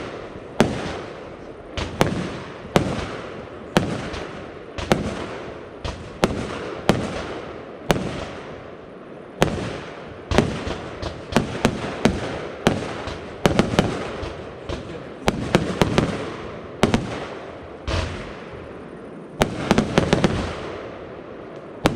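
Startrade Feuersturm fan-shaped firework battery (cake) firing shot after shot: a steady run of sharp bangs, one to two a second, each trailing off. Near the end come quick clusters of several bangs in a row.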